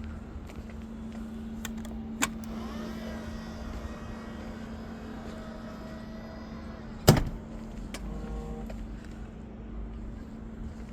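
2019 Range Rover Sport HSE: a click, then a few seconds of electric motor whine gliding in pitch, then a car door shutting with a heavy thud about seven seconds in, over a steady hum.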